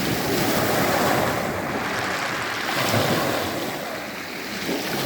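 Sea surf: small waves breaking and washing back over a pebble beach, swelling about a second in and again near three seconds.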